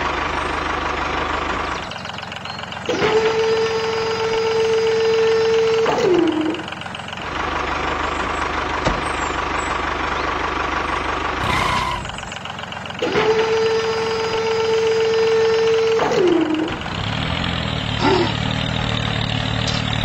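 Model tractor running with a steady engine-like drone. Twice it rises into a high steady whine, held about three seconds, that falls away in pitch as it stops.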